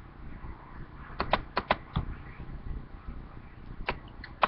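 Faint background noise with a handful of short, sharp clicks, a quick cluster of four or five a little over a second in and a couple more near the end.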